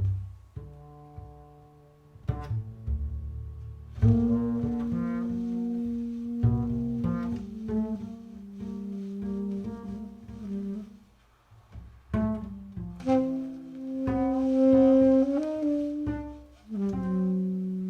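Tenor saxophone and plucked upright bass playing jazz together: the saxophone holds long notes over the bass line, with a brief drop in level about eleven seconds in.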